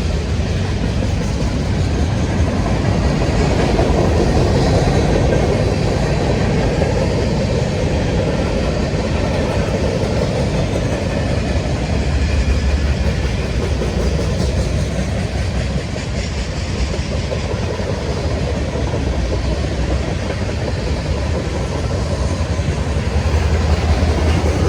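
A train rolling past: a steady, loud rumble of wheels on the rails that carries on without a break.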